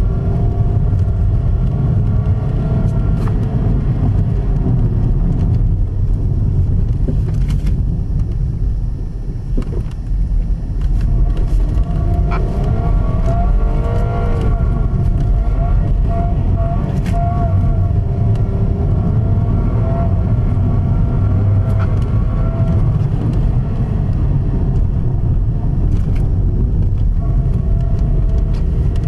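Audi A4's engine heard from inside the cabin as it is driven hard on snow, its revs rising and falling through gear changes over a heavy low rumble. About ten seconds in it eases off briefly, then the revs sweep up and down quickly several times.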